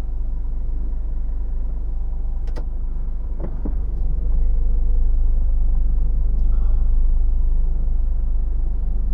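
HGV's diesel engine running at low speed in the cab during a yard manoeuvre, a steady low rumble that grows louder about four seconds in. A sharp click sounds about two and a half seconds in, with a softer knock a second later.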